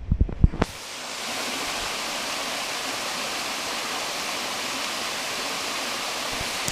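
A few sharp knocks, then, from about a second in, the steady rushing of a roughly 30-foot waterfall pouring into a deep pool.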